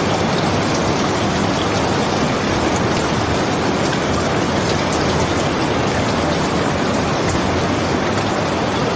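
Steady, heavy rain: an even, unbroken hiss with no pauses or single loud events.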